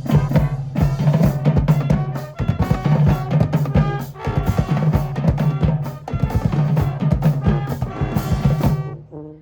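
Marching band playing loud: bass drums and snare drums hit in a fast, dense rhythm under held low brass notes. The playing breaks off just before the end.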